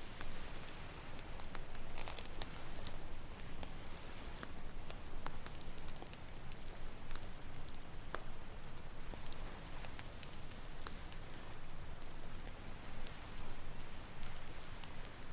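Campfire crackling, with irregular sharp pops and snaps scattered throughout, over a steady wash of ocean waves on the shore.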